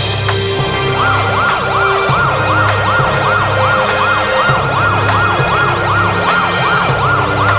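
Siren wailing in a fast, repeating rise and fall, about three sweeps a second, starting about a second in, over background music with a steady bass line.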